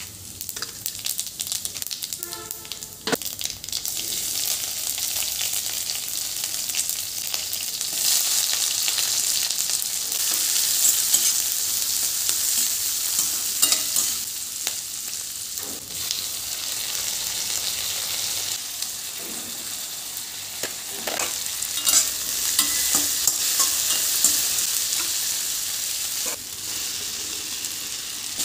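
Food frying and sizzling in hot oil in a pan, with the clicks and scrapes of a spatula stirring it. The sizzle grows stronger about eight seconds in.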